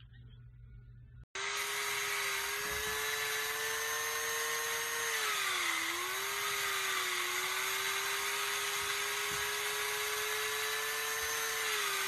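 A small electric motor running with a steady high whine over a rushing hiss, starting abruptly after a cut about a second in. Its pitch sags briefly near the middle, as if under load, then recovers.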